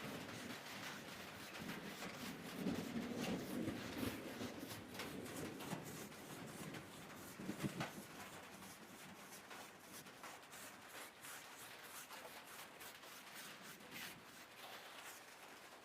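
Faint, scratchy brushing with many small ticks: a paintbrush stroking paint onto a wooden table. There is one louder knock partway through.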